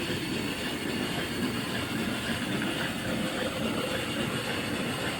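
Homemade steam donkey's twin steam engines running steadily, a rapid even clatter with a light hiss of steam.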